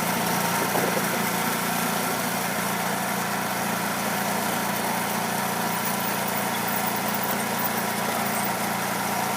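Engine of a Hudson Oscar 230 portable bandsaw sawmill running steadily, with an even, unchanging drone.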